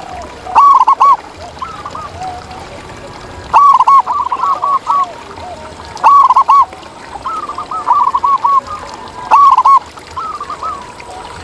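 Zebra doves (perkutut) cooing: four loud phrases of quick rising-and-falling notes, with fainter doves calling in between.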